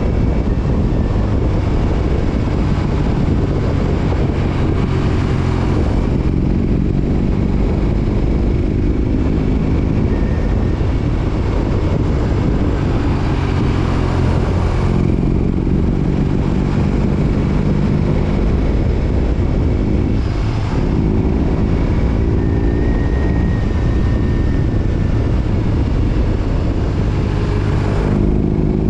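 BMW R18 Roctane's 1802 cc boxer twin running through an aftermarket Freedom Performance 4.5-inch exhaust under way, the engine note climbing and then dropping at gear changes several times.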